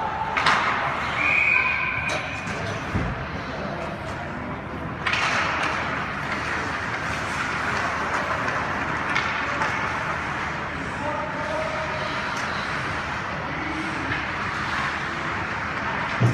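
Arena crowd noise during a game: a steady background of spectator chatter, with a sharp knock about half a second in and another about five seconds in, and a few brief calls.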